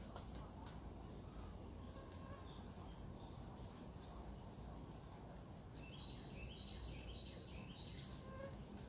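Faint outdoor ambience: a steady low rumble with scattered short, high bird chirps, and a quick run of stepped chirps about six to eight seconds in.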